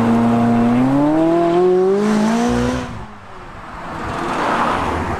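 McLaren 570GT's twin-turbo V8 under acceleration, its pitch held briefly and then climbing steadily for about two seconds before cutting off. After that comes the rising and fading rush of a car passing by.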